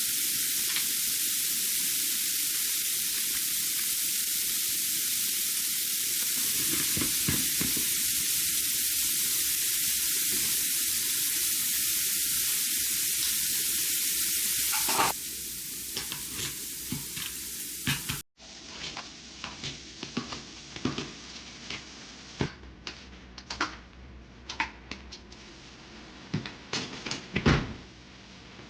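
Food frying in a pan with a steady sizzle for about fifteen seconds. After a cut, scattered light clicks and knocks follow.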